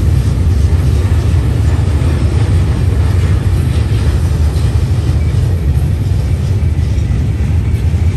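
Freight train's gondola cars rolling past on steel rails: a steady, loud low rumble of wheels on track.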